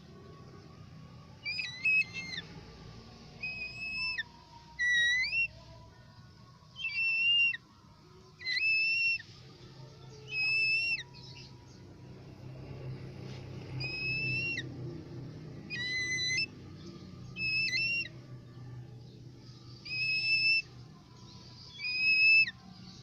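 Pet bird whistling a series of about a dozen short clear notes, each under a second, some sliding up or dropping at the end.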